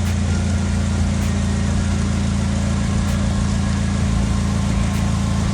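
Polaris Slingshot's four-cylinder engine idling steadily, freshly started.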